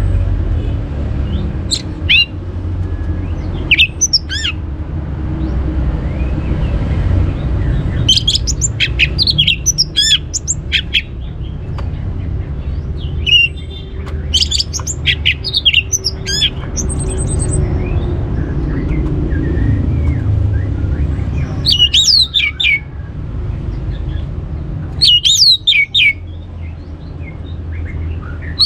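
Orange-headed thrush (anis merah) singing in short phrases of quick, sweeping high notes, separated by pauses of a few seconds, over a steady low rumble.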